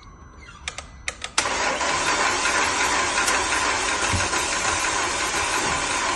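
A few sharp clicks, then about a second and a half in the starter motor of a 2009 Audi A5's 2.0 TFSI turbo four-cylinder starts cranking the engine steadily without it catching: a no-start fault.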